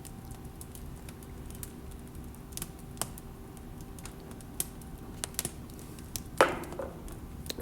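Wood fire crackling in a wood stove: scattered sharp irregular pops over a steady low hum, with a short vocal sound near the end.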